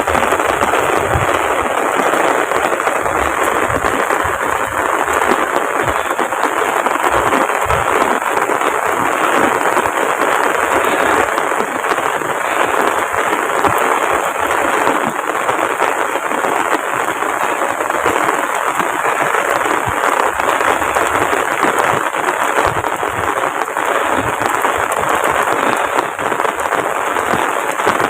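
Heavy rain falling steadily, a dense even patter on the surfaces around.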